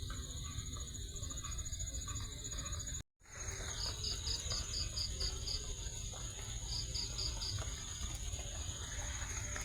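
Night insects calling: a steady high cricket trill, with two runs of louder pulsed chirps, about eight and then four, over low background noise. The sound cuts out for a moment about three seconds in.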